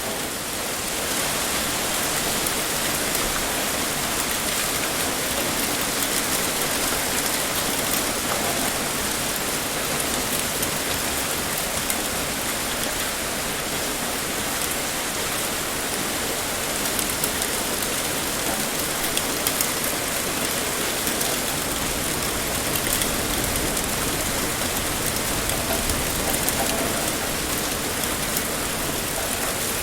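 Heavy rain pouring steadily, a dense even hiss with scattered drop ticks.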